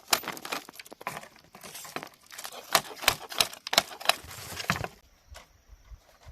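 Bamboo being split and broken by hand: a rapid run of sharp cracks and snaps that dies away about five seconds in.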